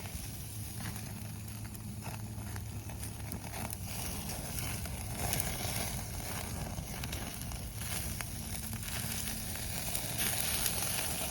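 Cabbage sizzling on a grill net over a campfire, with scattered crackles from the fire. The sizzle grows a little louder toward the end.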